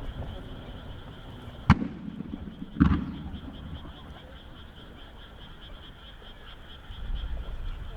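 Aerial firework shells bursting: two sharp bangs about a second apart, near the two-second mark. A steady high pulsing chorus runs underneath.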